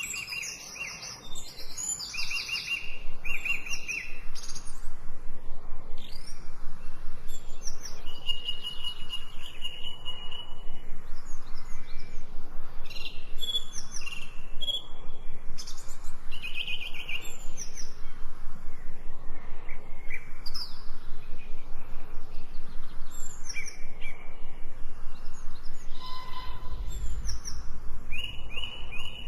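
Several small birds chirping and singing in overlapping short calls, with a low rumble coming in near the end.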